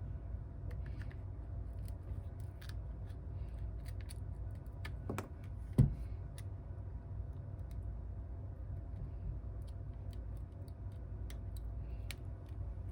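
Scattered small clicks and taps of hand tools and parts being handled on a workbench during phone repair, with one louder knock about six seconds in, over a steady low hum.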